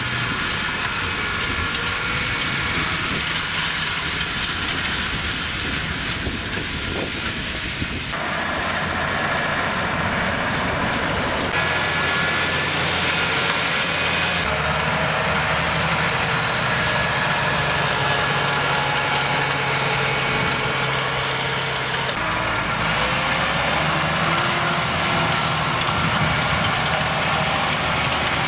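Farm tractor diesel engine running steadily. The character of the sound changes abruptly about four times.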